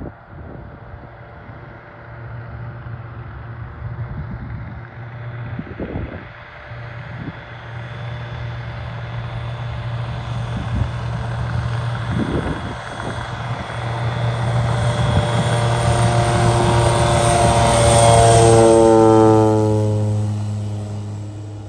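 De Havilland Beaver floatplane's radial engine and propeller running at high power while step-taxiing. The drone grows louder as the plane approaches, peaks near the end, then drops in pitch and fades as it passes.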